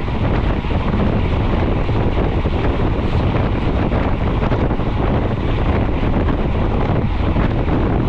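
Steady wind rushing over a GoPro's microphone as a mountain bike is ridden at speed.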